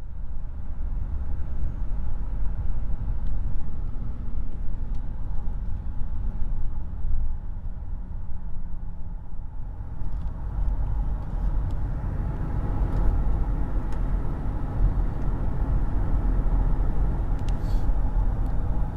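Mercedes-Benz E240 (W210) V6 saloon driven hard at high speed, a steady rumble of engine and road noise that fills out in the middle range over the second half.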